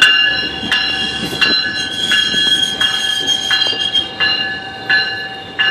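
Railway passenger train rolling by, its steel wheels squealing on the rails with sharp clacks about every 0.7 seconds as wheels cross the rail joints.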